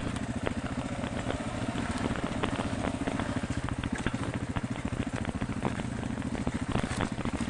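BMW GS adventure motorcycle engine idling, a steady rapid chugging of even exhaust pulses.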